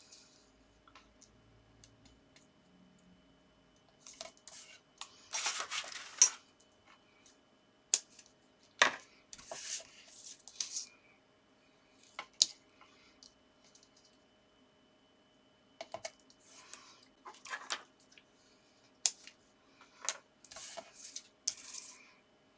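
Paper and red liner tape being handled while the tape is applied to an envelope's tabs: irregular rustles and sharp clicks, starting about four seconds in.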